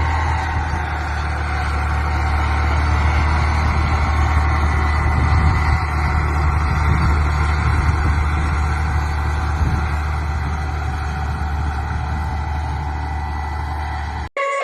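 Tractor engine running steadily with a deep, even drone, cutting off abruptly near the end.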